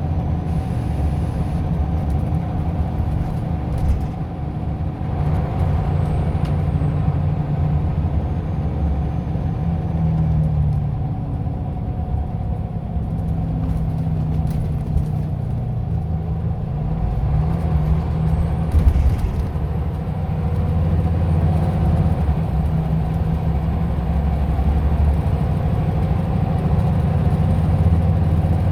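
Scania OmniLink I city bus running along, a steady low engine drone whose pitch shifts a few times. A brief knock comes a few seconds in, and a louder thump comes about two-thirds of the way through.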